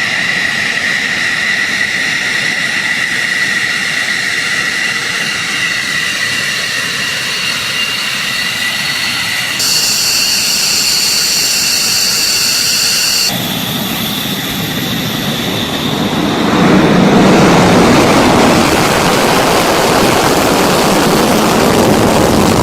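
F-15 fighter jet engines: a steady high-pitched turbine whine that changes abruptly twice, then a louder roar that builds about two-thirds of the way in.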